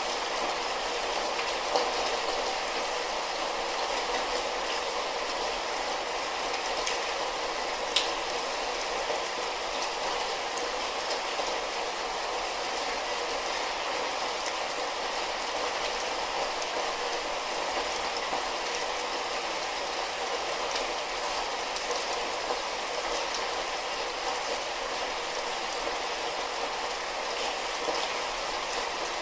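Light rain falling steadily, an even hiss of patter with a few sharper drop ticks, one louder about eight seconds in.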